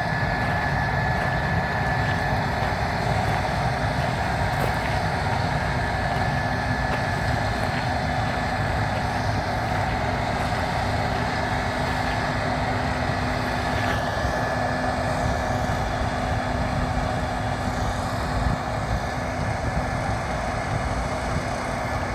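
Case IH 7150 combine harvester running steadily while harvesting wheat: an even engine-and-machinery drone with a faint steady whine over it.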